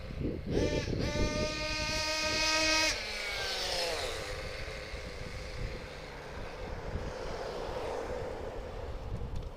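.21 nitro engine of a 1/6-scale RC short-course truck revving: a short blip, then held at a high pitch for about two seconds before falling back and settling into a steady lower drone for the rest of the time.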